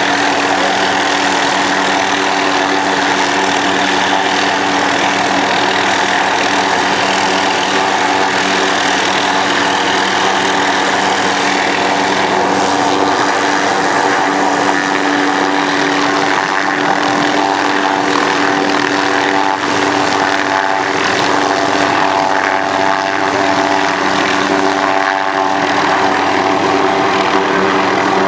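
Helicopter running steadily: a loud, even drone of engine and rotor with several steady tones over a wide rushing noise.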